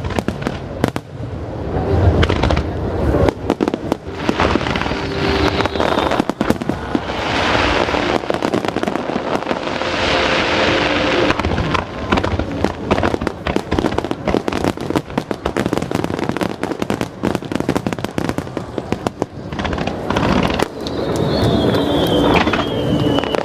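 Aerial fireworks display: shells bursting in quick succession, with dense crackling and repeated bangs that swell and ease in waves.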